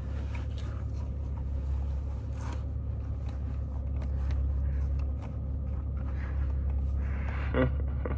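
Steady low hum of a car engine idling, with light scrapes and clicks of something being handled.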